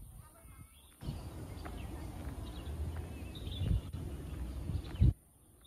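Small birds chirping in trees. From about a second in there is a low rumble, and near the end comes one loud thump before the sound drops away.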